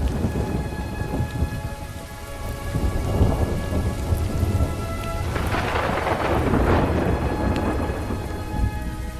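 Recorded thunderstorm with steady rain, laid over slowed, reverb-heavy music of long held notes. A roll of thunder swells about five seconds in and fades out over the next two seconds.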